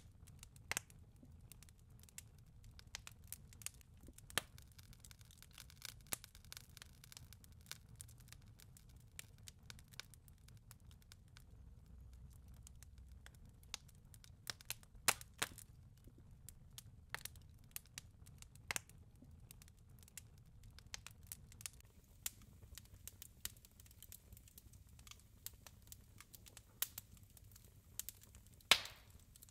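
Fireplace crackling: irregular snaps and pops of burning wood, a few of them sharper and louder, over a faint low rumble.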